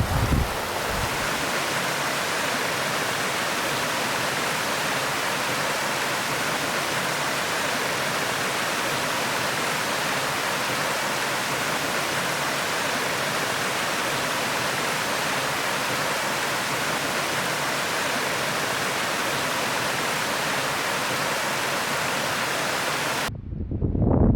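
Steady rushing of water pouring over a creek waterfall, an even hiss that holds unchanged. About a second before the end it cuts off suddenly and gives way to low, gusty wind rumble on the microphone.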